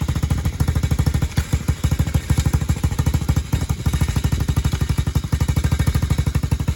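Dirt bike engine running at a steady idle, a rapid even beat of exhaust pulses.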